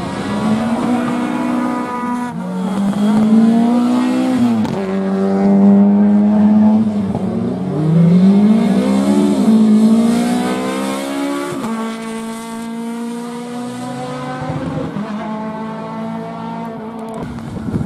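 Rally car engine accelerating hard, revs climbing and dropping back at each of several gear changes, then running at a steadier pitch through the second half.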